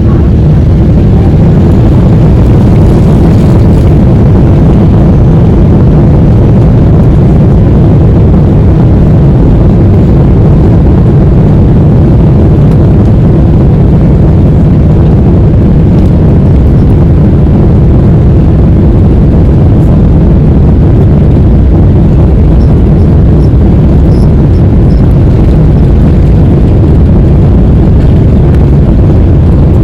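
Loud, steady aircraft noise: a continuous low rumble with a faint steady hum, unchanging throughout.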